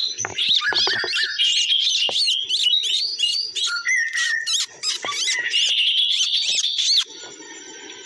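Loud bird calls: rapid, repeated high chirps and short rising-and-falling whistles, with some clicks mixed in, cutting off abruptly about seven seconds in.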